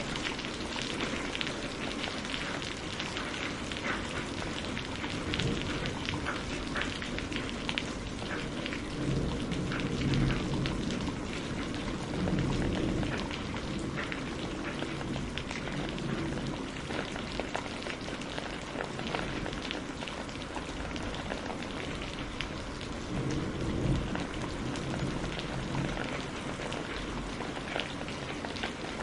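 Steady rain with many fine sharp ticks of drops and crackles from burning firewood. A low rumble swells twice, about ten seconds in and again near twenty-four seconds.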